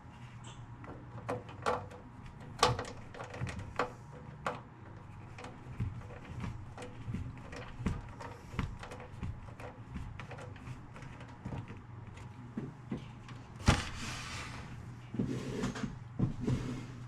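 Scattered clicks and knocks from parts being handled and fitted as the stereo is put back together, with one sharp loud knock about two-thirds of the way in and a few short scraping rustles near the end, over a steady low hum.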